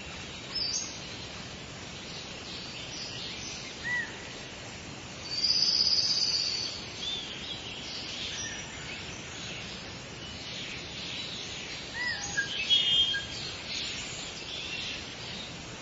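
Several songbirds chirping and calling over a steady outdoor hiss. The loudest is a high, drawn-out call a little past five seconds in; short clear notes come around four and twelve seconds in, with a quick trill just after the second.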